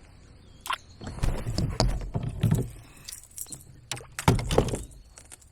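Water splashing and knocks against a kayak in irregular bursts as a hooked largemouth bass is brought in beside the boat.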